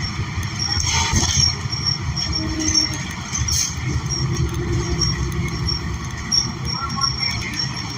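Cabin of a New Flyer XN40 city bus under way, with its Cummins Westport L9N natural-gas engine and the road giving a steady low rumble. Brief rattles and knocks are heard about a second in and again about three and a half seconds in.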